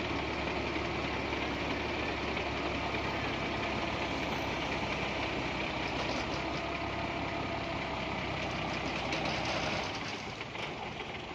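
Truck engine running steadily with a diesel knock, growing quieter about ten seconds in.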